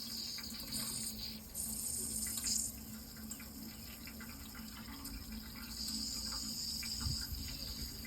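Running water, flowing steadily with small splashes and trickles, and a high-pitched chirring that comes and goes in stretches of a second or so.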